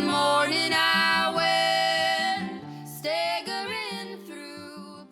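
Closing bars of a song: a voice holding long, wavering sung notes over acoustic guitar, with a short break about two and a half seconds in, then fading out near the end.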